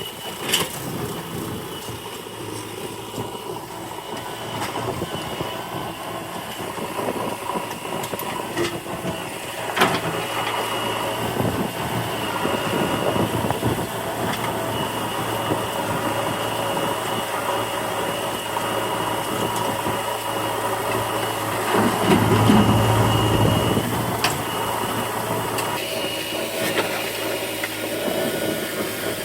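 JCB 3DX backhoe loader's diesel engine running steadily while it works, with a steady high whine over it. There are sharp knocks about half a second and ten seconds in, and the engine grows louder and deeper for a couple of seconds around 22 seconds in as it works under load.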